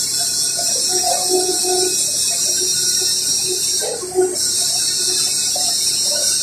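Electric arc welding: the arc's steady frying hiss, which cuts out for a moment about four seconds in and strikes up again.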